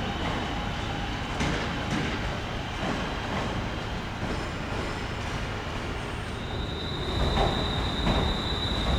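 Electric multiple-unit train moving through the station, with its wheels knocking over rail joints several times. A steady high-pitched wheel squeal begins about six seconds in.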